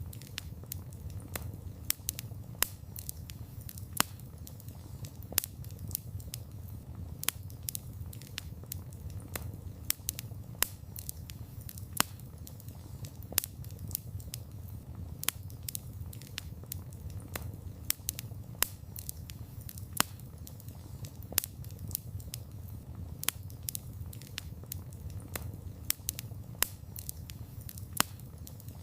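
Wood campfire burning: a steady low rush of flame with frequent irregular crackles and sharper pops from the burning logs.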